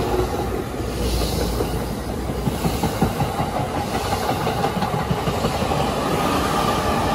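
Electric commuter train rolling slowly past on the adjacent track: a steady rumble with the wheels clacking over rail joints, the clacks clustered in the middle.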